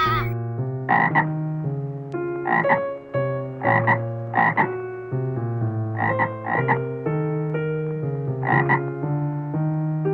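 Frog croaking: short calls, often two in quick succession, repeated every second or two over soft background music with held notes.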